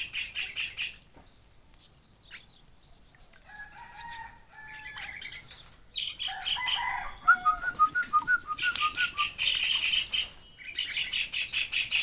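A young bird begging while being hand-fed: spells of fast, repeated chirps, about six a second, that stop and start again several times. In a quieter stretch between spells, fainter bird calls are heard, and a short run of quick, clear notes comes in the middle.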